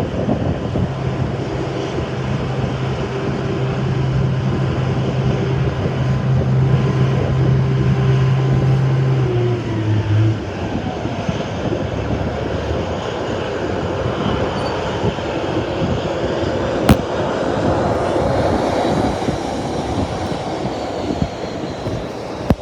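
Jet airliner engines running, with gusty wind on the microphone. A steady low hum drops away about ten seconds in, and there is a sharp click about seventeen seconds in.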